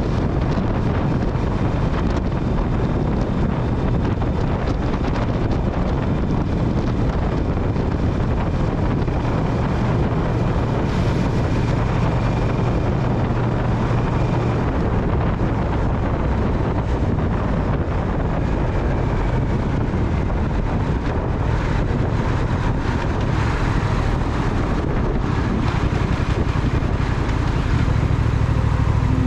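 Wind rushing over the microphone on a moving motorcycle, over the steady drone of its Triumph Speed Twin parallel-twin engine and tyre noise.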